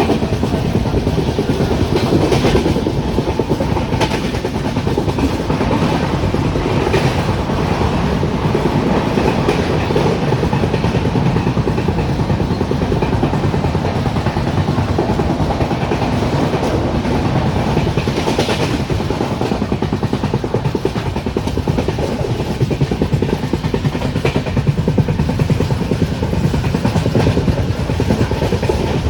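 Express train running at full speed, heard from aboard: a steady loud rumble of wheels on rails, with now and then a sharper click from the track.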